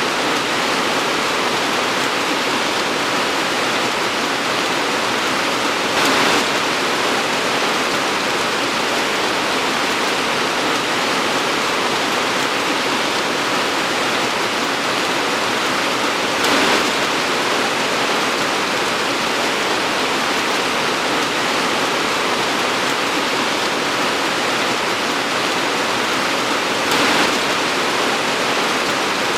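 Torrential rain falling as a steady, dense hiss, with three brief louder swells about ten seconds apart.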